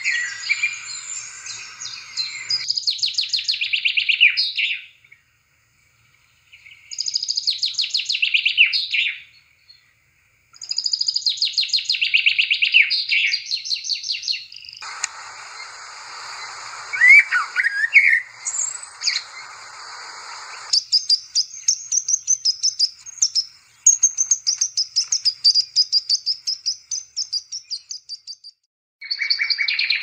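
Birds chirping in quick runs of high, rapidly repeated notes. Several separate stretches, each a few seconds long, start and stop abruptly with short silences between them.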